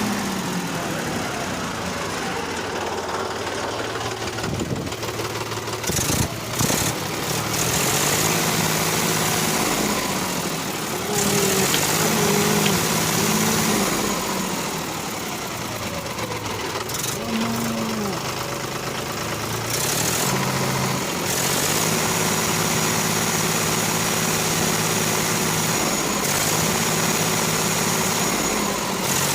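Mini tractor engine running steadily, its pitch shifting up and down now and then, with a few sharp knocks about six seconds in.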